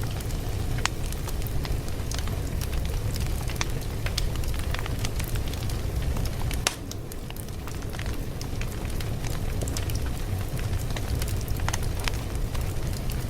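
Fire crackling: a steady low rumble with frequent scattered sharp pops and crackles. A louder pop comes about six and a half seconds in, and the sound dips briefly after it.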